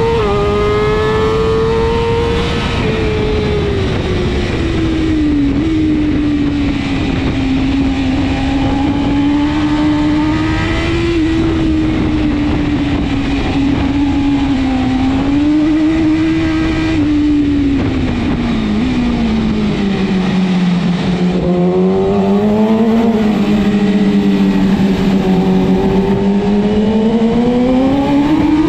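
BMW S1000RR superbike's inline-four engine at race pace, its revs dropping and rising with each braking zone, downshift and drive out of the corners. The pitch sinks lowest about two-thirds of the way through and climbs steeply under hard acceleration near the end.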